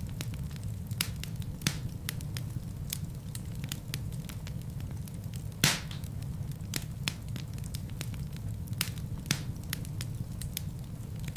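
Wood fire burning in a fireplace: a steady low rumble of flames with frequent sharp crackles and pops, one louder pop about halfway through.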